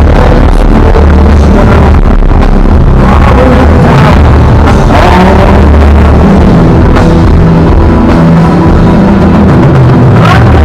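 A live rock band playing loud without vocals, with sustained bass notes and drums.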